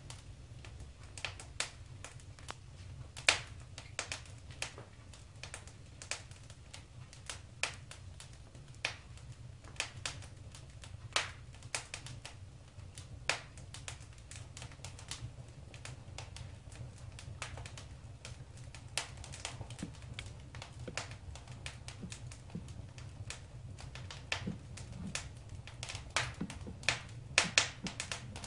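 Wood fire crackling in a fireplace: irregular sharp pops and snaps over a steady low rumble, the pops coming thicker near the end.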